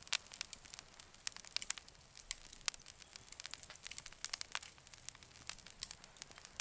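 Campfire crackling: burning wood giving off frequent, irregular sharp pops and snaps.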